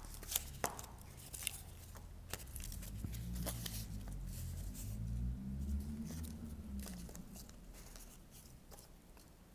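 Faint handling sounds of a cardboard and string puppet: scattered light clicks and rustles over a low rumble.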